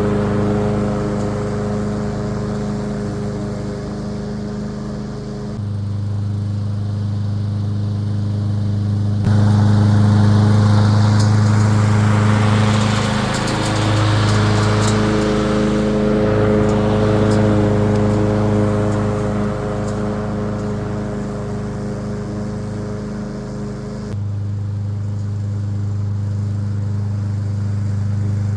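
Masport Rotarola walk-behind rotary mower's petrol engine running steadily while mowing. Its level steps up and down a few times, and a rushing noise swells around the middle.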